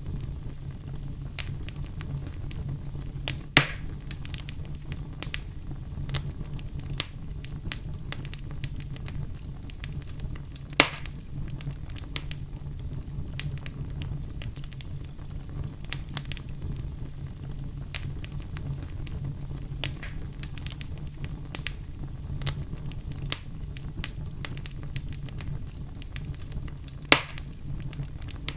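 Wood fire in a fireplace crackling steadily, with many small clicks over a low, even rumble. Three much louder pops stand out: about three and a half seconds in, about eleven seconds in, and near the end.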